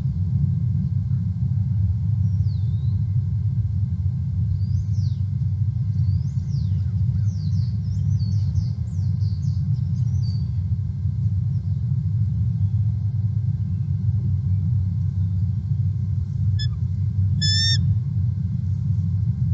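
Wild birds calling with quick high chirps and sweeping notes, over a steady loud low rumble. Near the end comes one short, rapid, pulsed call.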